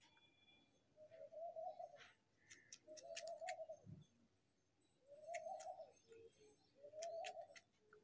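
A bird's short, low call, rising and falling, repeated four times about two seconds apart, with faint light ticks in between.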